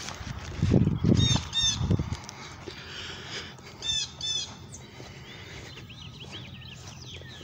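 Wild birds calling: two pairs of short, arched, pitched calls about a second and about four seconds in, then faint high chirps toward the end. A few low thumps sound in the first two seconds.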